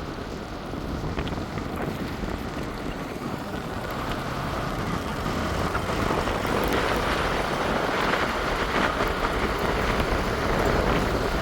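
Wind buffeting the microphone over a steady low rumble, growing gradually louder toward the end.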